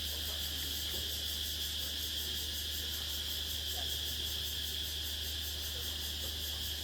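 Dusk chorus of calling insects: a steady, high continuous trill with a rapidly pulsing buzz above it, unbroken throughout, over a low steady hum.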